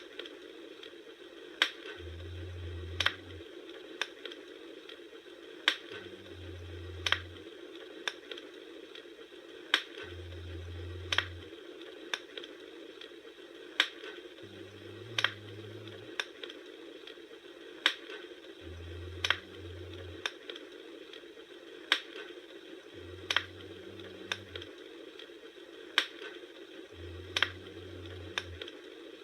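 Wood fire crackling, with a sharp pop every second or so over a steady low hiss.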